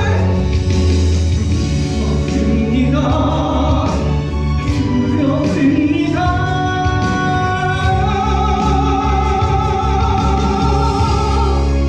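A man sings a musical-theatre ballad over instrumental accompaniment, holding one long note through the second half.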